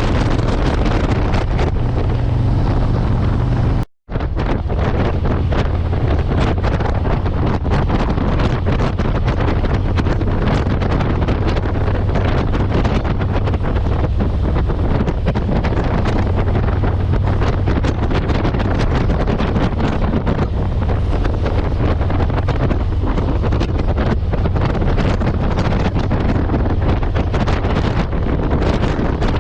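Motorcycle engine running steadily while riding, with heavy wind buffeting the microphone. The audio cuts out for a split second about four seconds in.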